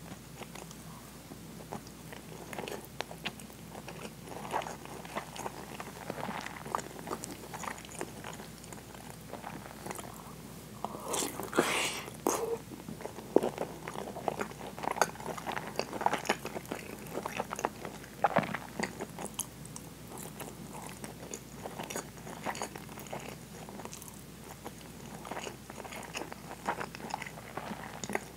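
Chewing and mouth sounds of a person eating soy-braised pork and white rice, a run of irregular small clicks and smacks, with a louder stretch about halfway through.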